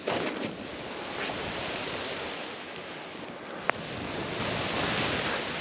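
Snowboard sliding and carving through powder snow, a steady rushing hiss mixed with wind on the helmet-mounted microphone. A single sharp click a little past the middle.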